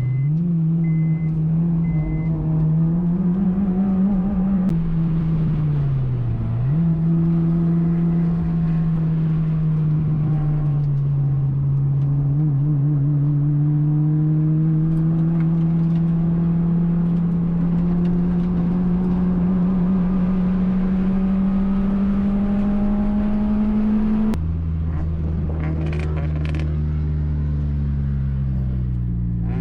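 Honda Fit's 1.5-litre four-cylinder engine running hard on track, heard from on board. The revs stay high with the pitch climbing slowly, and dip briefly twice, near the start and about six seconds in. Near the end the note changes abruptly and a deeper drone joins it.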